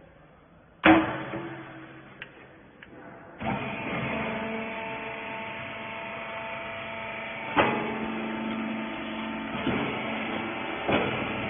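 Rag baler: a loud metal clang about a second in, then a few light clicks, and from about three and a half seconds in the machine's motor and hydraulic pump run with a steady hum, broken by several sharp knocks.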